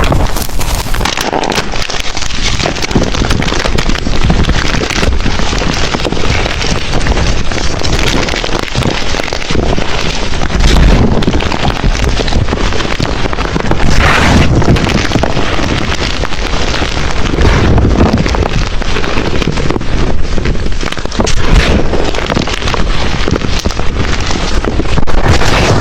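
Blocks of gym chalk being crushed and crumbled by hand: dense, continuous crunching and crackling, with louder crunches now and then.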